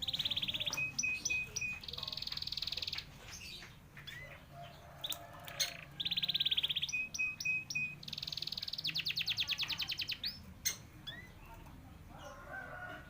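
Canary singing: fast, high trills and rows of short repeated notes, the same song phrase given twice.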